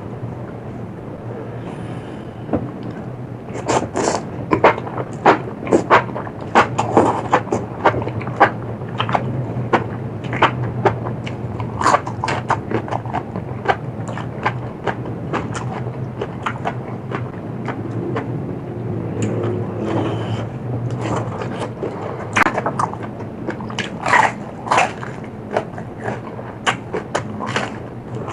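Close-miked eating of a spicy seafood salad: repeated sharp crunches, cracks and wet chewing, coming in quick clusters after the first few seconds, over a steady low hum.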